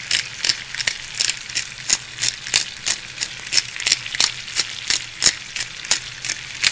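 Chicken breasts frying in butter and olive oil in a skillet over medium-high heat: a steady sizzle with frequent sharp crackling pops, a few a second.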